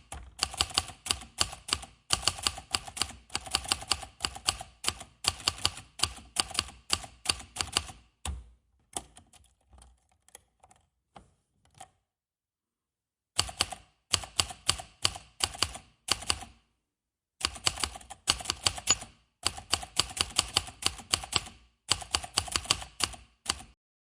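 Rapid keyboard-typing clicks in runs of several seconds, broken by two silent gaps about halfway through and again about two-thirds of the way in, with only a few faint clicks in between.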